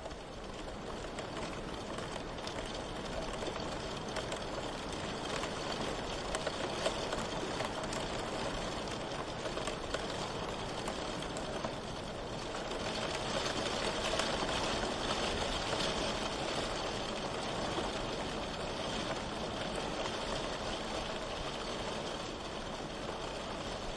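Steady rain ambience: an even hiss of rainfall with fine patter of drops, swelling slightly about halfway through.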